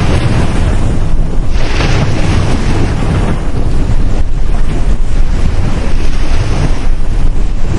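Ocean surf breaking and washing up a beach, with heavy wind buffeting the microphone.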